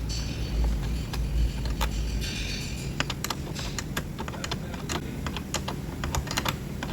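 Hand ratchet wrench clicking in quick, irregular runs as a bolt is turned by hand in a tight spot on the engine, where an impact gun won't fit.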